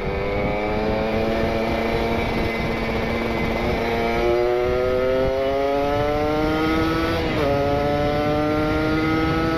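A Kawasaki Ninja RR two-stroke single, breathing through an R9 Neo Mugello carbon exhaust and set up rich on a PWK28 carburettor, pulls under acceleration with its pitch rising steadily. About seven seconds in the pitch dips briefly for an upshift, then climbs again.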